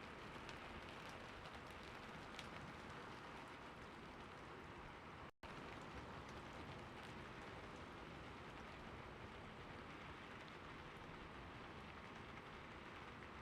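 Steady, gentle rain falling, with a fine patter of drops. The sound cuts out completely for a split second about five seconds in, then resumes.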